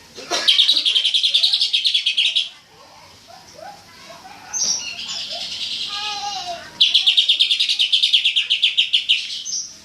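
Cucak ijo (green leafbird) singing in the fast 'tembakan' style: two bursts of rapidly repeated, loud high notes, each about two seconds long, with a softer, more varied warbling phrase between them.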